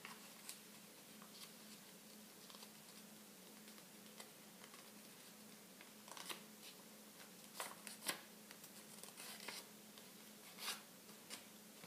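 Faint rustling and crinkling of a square sheet of paper being folded edge-to-middle and its crease pressed down, with a few short soft crackles in the second half over a low steady hum.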